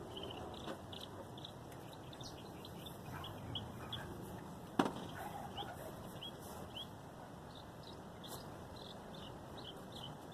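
Small birds chirping sporadically in short high chirps over a low background hiss, with one sharp click about five seconds in.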